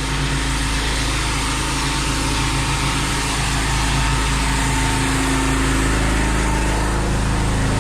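Pressure washer running steadily: the drone of its small engine under a constant hiss of spray.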